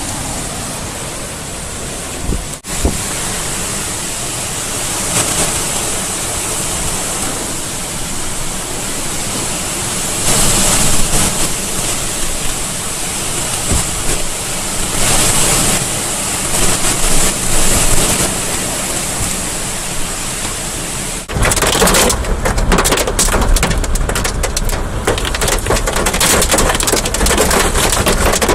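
Heavy rain pouring steadily in a severe thunderstorm. It changes abruptly twice, about two and a half and twenty-one seconds in. After the second change the sound is rougher, with more low rumble.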